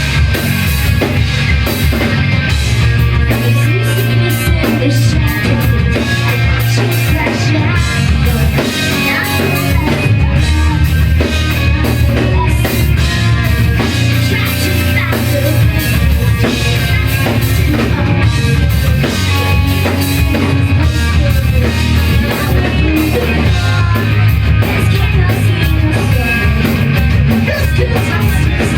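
Live rock band playing loud and steady, with drum kit and electric guitars over a heavy bass line.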